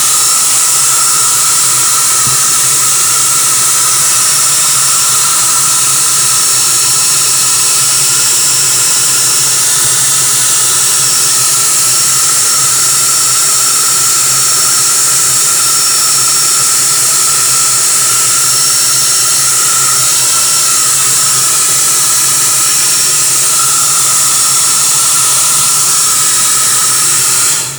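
An electric blower running steadily: a loud, even rush of air over a constant low motor hum, starting and stopping abruptly.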